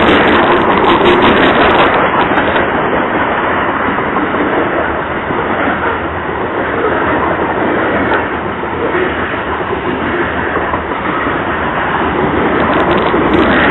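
Train rolling past: steel wheels running on the rails as a steady loud rumble and rattle, easing a little in the middle and building again near the end.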